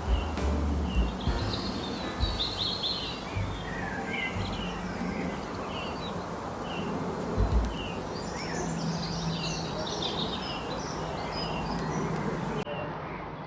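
Several birds chirping in short, high calls over a steady rushing background noise, with a few low thumps near the start. The sound fades out near the end.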